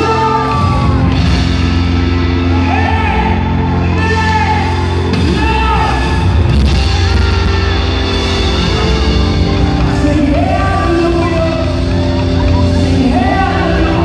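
Loud live rock music with a singer's voice over steady bass notes.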